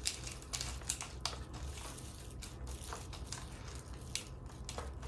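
Irregular light clicks, crinkling and scraping of kitchen utensils and packaging being handled while melting chocolate, over a low steady hum.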